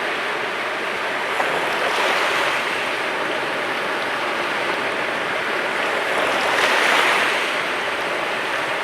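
Sea waves washing onto the shore in a steady rushing wash, with a swell about two seconds in and a louder one around seven seconds as a wave breaks.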